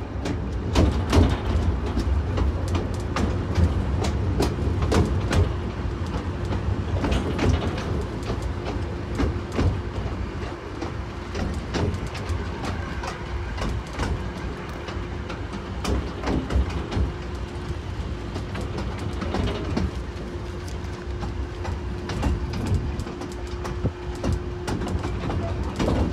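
North Bay Railway miniature train running along the line: a continuous low rumble with frequent sharp clicks of wheels over rail joints and a steady hum through most of it.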